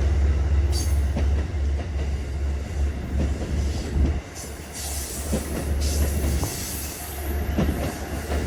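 Passenger train rolling along the tracks: a steady low rumble with scattered sharp clicks of wheels over rail joints and some squeal.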